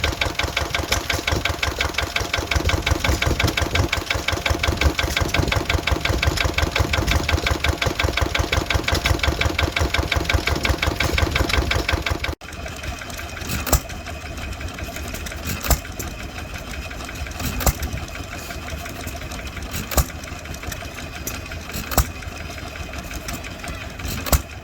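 Vintage stationary engines running at a show. For about the first twelve seconds one engine runs with a fast, even beat. After a sudden cut, another engine runs with a sharp crack about every two seconds.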